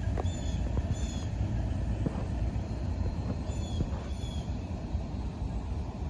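Train rumbling past steadily, with faint clicks. A few short high chirps sound over it.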